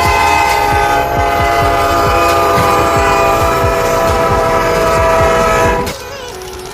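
Locomotive air horn sounding one long blast of several steady notes together, cutting off suddenly about six seconds in.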